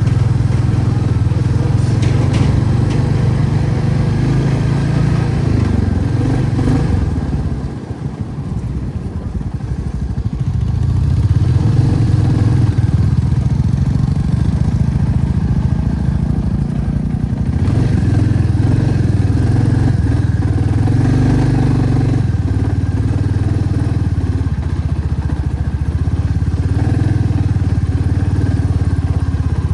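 Motorcycle engine running under way on a ride. It eases off about eight seconds in, then picks up again.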